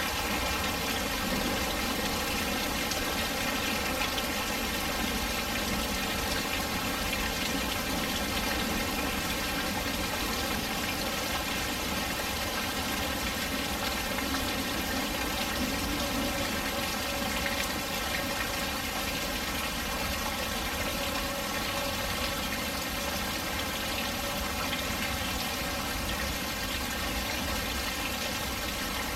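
Steady heavy rain: an even, unbroken rush of falling and splashing water at a constant level.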